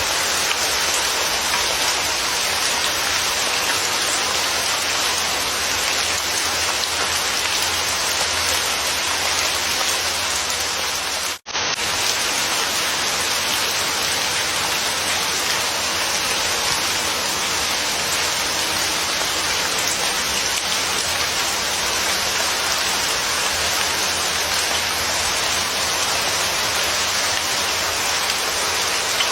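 Steady, heavy rain falling, an even hiss. It cuts out for a split second about eleven seconds in, then carries on unchanged.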